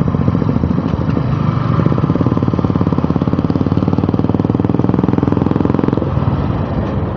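Motorcycle engine running steadily under way, with a rapid even thumping beat. It eases off briefly about six seconds in, as if the throttle were rolled back, then picks up again.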